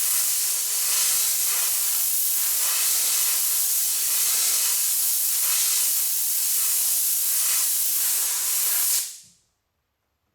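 Heat gun blowing hot air in a steady hiss, softening a wheel flare to shape it to the body; it is switched off about nine seconds in and dies away quickly.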